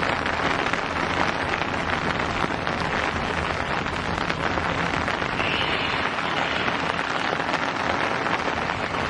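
Steady dense hiss with a fine crackle, of the kind rain on a surface makes, cutting off suddenly at the end.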